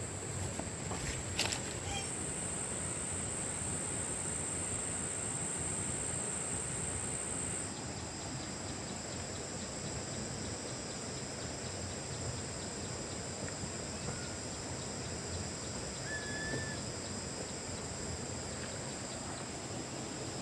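Insects, crickets or cicadas, droning steadily at a high pitch over a steady hiss of outdoor noise; the insect tone shifts about a third of the way in. A few light clicks come about a second in, and a short bird chirp near the end.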